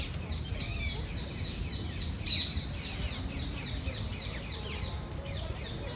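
Birds calling in a rapid series of short, falling, chirping notes, about four a second, over a steady low background noise.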